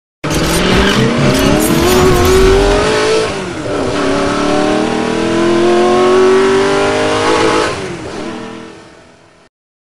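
Car engine accelerating hard: its pitch climbs for about three seconds, drops at a gear change, climbs again for another four seconds, then fades out.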